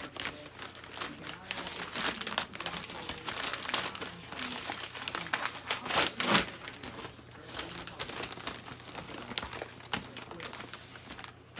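Packaging crinkling and rustling as a fan is unboxed by hand, in irregular bursts with the loudest rustle about six seconds in.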